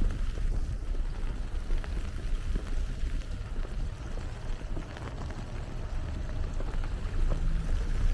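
Wind buffeting the microphone in a snowstorm: a constant, uneven low rumble with a steady hiss above it.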